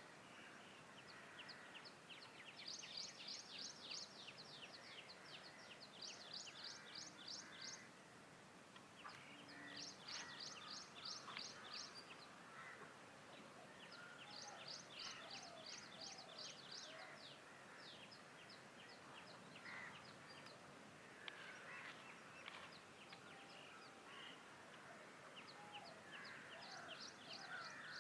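Faint birdsong: short trains of rapid, high-pitched notes repeated every few seconds, with scattered lower chirps between them.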